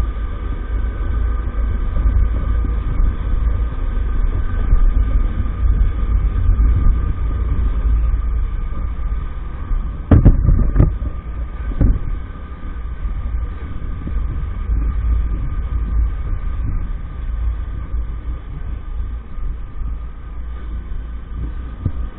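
EAYS Pro 50cc scooter running at a steady speed, its engine tone held steady under a heavy low rumble, with a couple of sharp knocks about ten and twelve seconds in.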